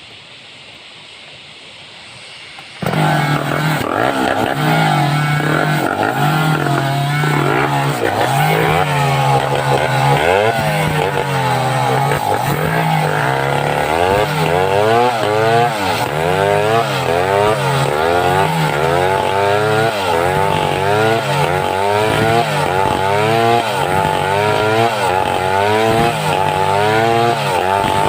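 Homemade two-stroke chainsaw coming in loud about three seconds in, after a low hiss, and running hard. Its engine speed rises and falls over and over, about once a second.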